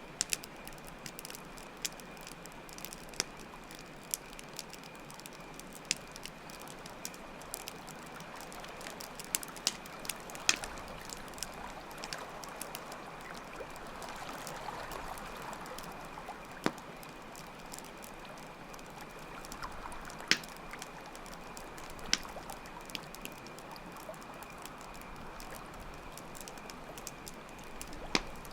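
Campfire crackling with scattered sharp pops over a steady sound of water, which swells for a few seconds in the middle. Crickets chirp throughout as a constant high trill.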